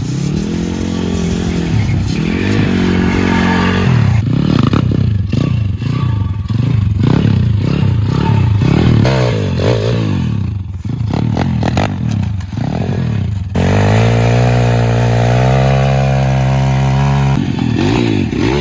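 Pit bike's small single-cylinder engine revving up and down again and again. About two-thirds of the way in it holds a steady higher speed for a few seconds, then goes back to revving near the end.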